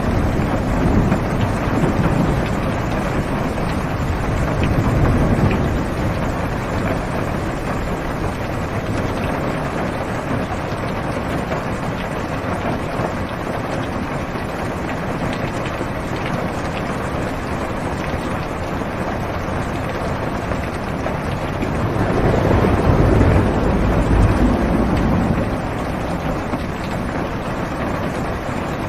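Heavy rain falling on a car's roof and windows, heard from inside the cabin as a steady hiss. Low rolling thunder swells in the first few seconds and again a little past the two-thirds mark.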